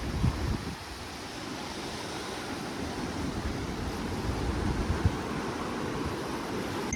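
Steady rush of the fast-flowing Niagara River, with wind rumbling on the microphone.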